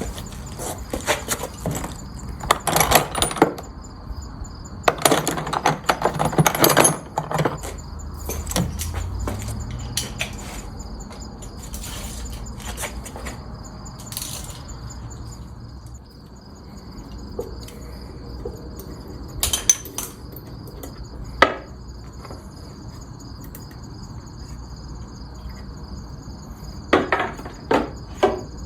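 Scattered clanks, knocks and rattles in a few short clusters, over a steady high-pitched insect drone.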